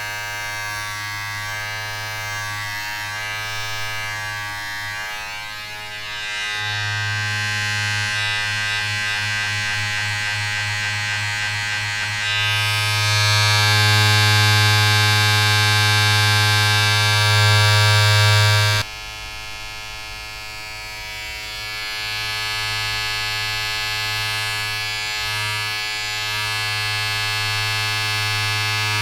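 Steady low electric buzz of a small motor, with many overtones. It grows louder and brighter about six and twelve seconds in, drops suddenly about nineteen seconds in, then slowly builds again.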